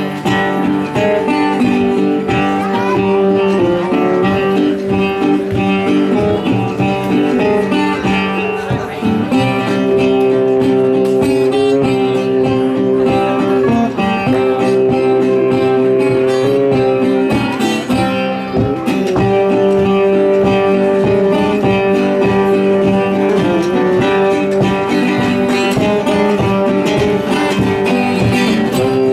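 Instrumental break of a live acoustic string-band tune, led by guitar, with long held notes over a steady chord.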